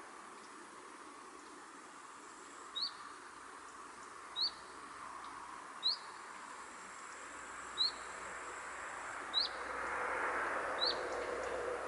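A bird calling one short, high chirp over and over, six times about a second and a half apart, over a steady rushing background that grows louder near the end.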